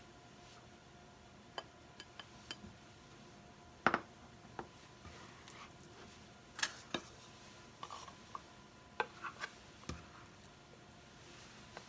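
Dishes and utensils clinking and knocking, scattered taps and clinks, some briefly ringing. The loudest are about four and seven seconds in, with a cluster of lighter clinks near the end.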